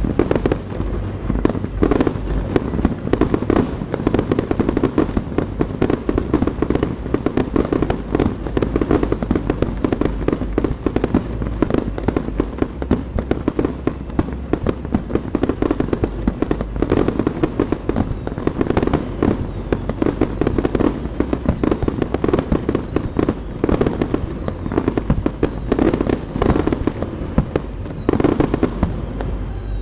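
Fireworks show of underwater fireworks and aerial shells: a dense, unbroken run of bursts and crackling, many reports a second.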